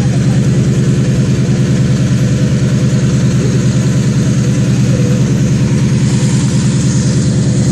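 Drift car's engine idling loudly and steadily, an even pulsing note that holds one pitch with no revving.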